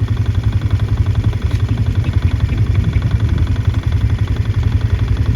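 Tractor engine running steadily at idle, with an even low pulsing.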